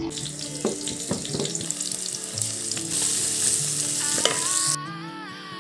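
Sliced onions and garlic frying in hot oil in a metal pot, sizzling steadily with scattered clicks as they are stirred with a wooden spoon. The sizzle cuts off sharply near the end, leaving soft background music.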